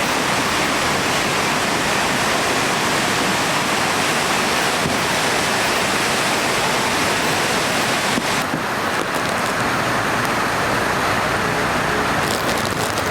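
Steady rushing noise of storm water, such as a swollen river or a heavy downpour. The high hiss eases a little about eight seconds in.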